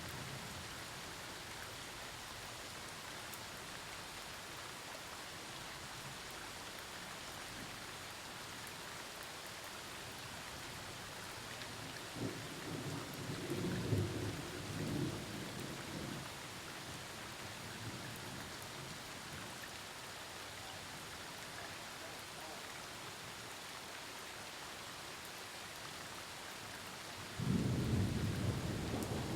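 Steady rain falling, with thunder: a rolling rumble swells about halfway through and fades, then a loud clap of thunder breaks suddenly near the end and keeps rumbling.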